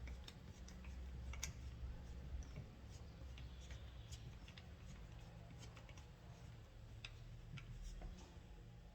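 Faint, scattered light clicks and taps of metal parts and tools being handled, over a low steady hum.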